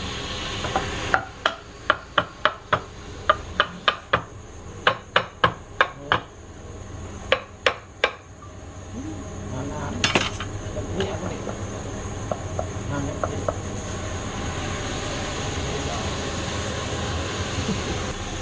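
A quick series of sharp knocks, about two or three a second, for roughly seven seconds. Then, from about ten seconds in, a woodturning lathe runs steadily.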